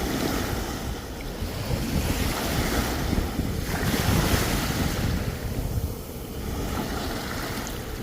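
Sea waves breaking and washing up on the beach, with wind rumbling on the microphone. The surf swells to its loudest about four seconds in, then eases off.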